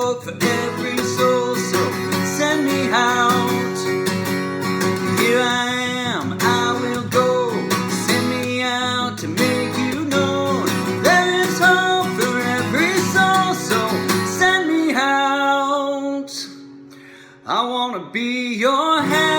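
Worship song band music led by a strummed acoustic guitar. It drops away for a moment near the end, then comes back in.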